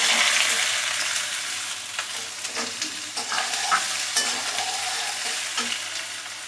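Chopped onion sizzling as it hits hot oil in a kadai, the hiss starting suddenly and loud and easing off gradually, with the clicks and scrapes of a spatula stirring it against the pan.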